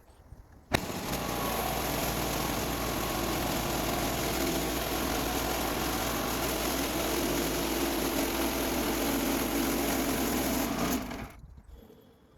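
Woodland Mills HM126 portable bandsaw sawmill running steadily under power. It starts abruptly about a second in and dies away near the end.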